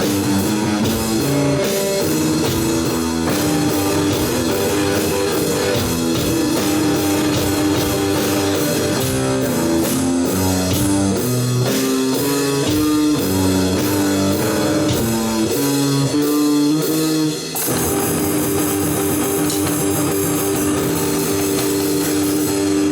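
Live rock band playing: electric guitar, bass guitar and drum kit with a stepping bass line. About 17 seconds in, the band moves to a long held chord that rings on.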